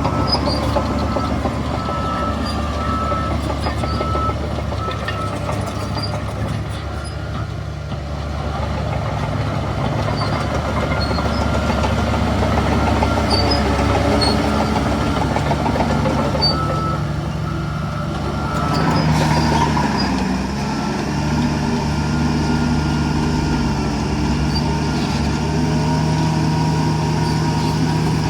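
Heavy diesel engines of a bulldozer and dump trucks running steadily, with a reversing alarm beeping in short repeated beeps during the first few seconds and again briefly about two-thirds through. The engine note changes around two-thirds of the way in.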